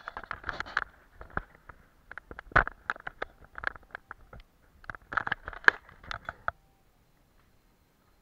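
Painting tools scratching and tapping on paper in short irregular strokes, stopping about two-thirds of the way through.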